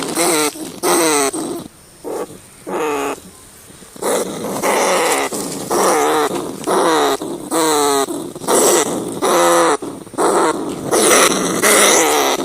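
Rats squealing: a rapid series of short, wavering, harsh calls one after another, with a quieter stretch about two to four seconds in.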